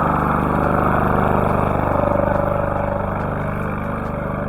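Motor vehicle engine running steadily and loudly.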